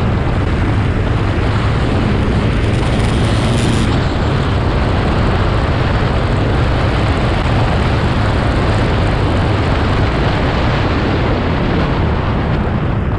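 Honda CT125's air-cooled single-cylinder engine running steadily on the move, under a loud, steady rush of wind noise on the microphone.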